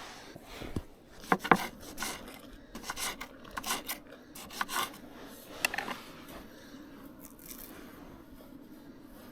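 Irregular scraping and rubbing handling noises with several sharp clicks over the first six seconds, then only a quiet steady background.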